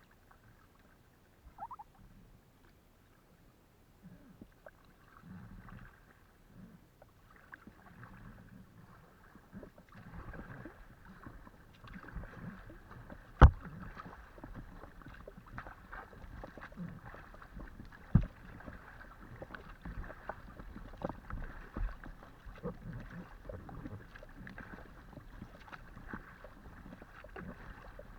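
Kayak paddling on open water: splashing and dripping from the paddle strokes, starting faint a few seconds in and growing fuller about a third of the way through. A few sharp knocks come through, the loudest about halfway through and another shortly after, as the paddle or gear strikes the kayak.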